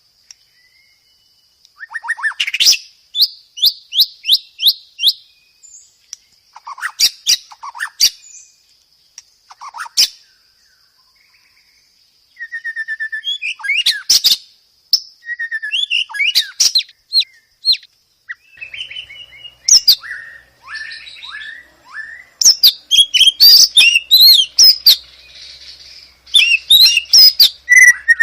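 White-rumped shama (murai batu) singing a varied song of loud whistled phrases and fast note series, broken by short pauses and growing denser near the end. A thin steady high tone runs beneath the first half.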